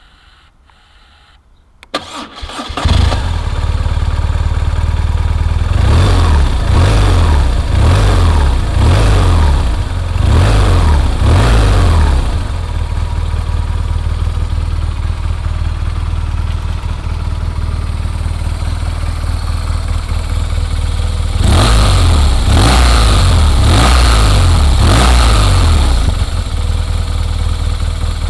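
BMW R1200R boxer-twin motorcycle engine cranked on the starter and catching about two seconds in, then running. It is blipped with the throttle several times in a row, settles to a steady idle, and gets another run of throttle blips past the midpoint before idling again.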